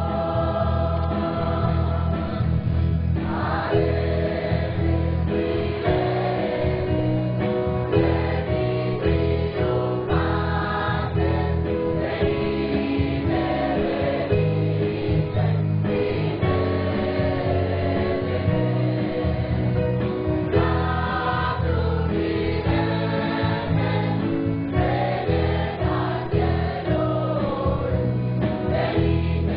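Choir singing a Christmas song, continuously and at a steady volume.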